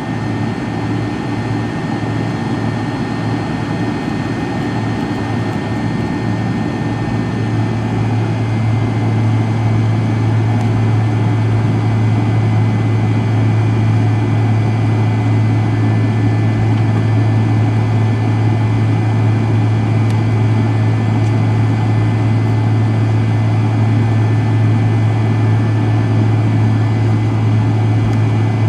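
The McDonnell Douglas MD-83's tail-mounted jet engines, heard inside the rear cabin, spooling up for takeoff. A steady deep drone with a faint high whine grows louder over the first several seconds, then holds at full power during the takeoff roll.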